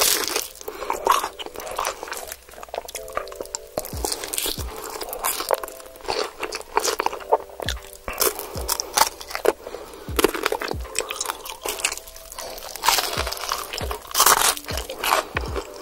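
Close-miked eating: crisp crunching bites into fried chicken wings coated in melted cheese, with chewing between the bites. The loudest crunches come near the end.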